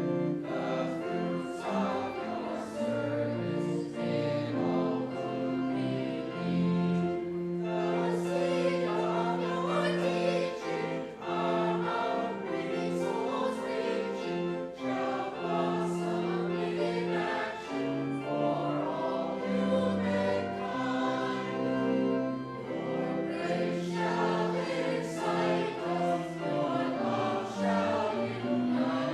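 Church congregation singing a hymn with instrumental accompaniment, in long held notes and changing chords.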